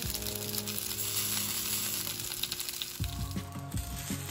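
Eggplant slices sizzling as they pan-fry in a nonstick skillet; the sizzle thins out about three seconds in.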